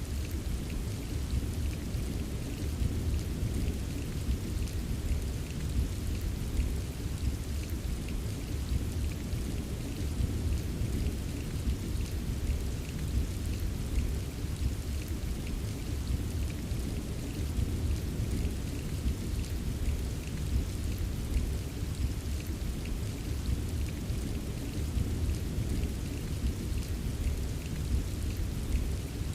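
Steady rain with a dense patter of small drop ticks, over a continuous low rumble of distant thunder. No single clap stands out.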